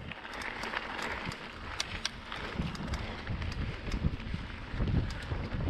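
Mountain bike rolling along a dirt trail: tyres rumbling and thumping over bumps, with irregular sharp clicks and knocks from the bike and some wind noise on the microphone.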